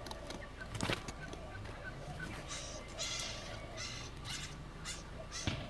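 Three-week-old wattlebird chicks giving harsh, raspy calls in a run of short bursts, about one every half second from around two seconds in, with a few faint short chirps before them. A sharp knock sounds near the start and another near the end.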